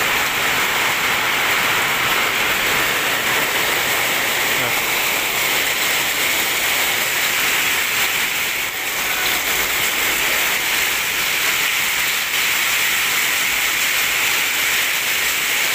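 Torrential rain mixed with hail pelting a sheet-metal workshop roof and the pavement outside: a steady, loud, unbroken hiss that drowns out everything else.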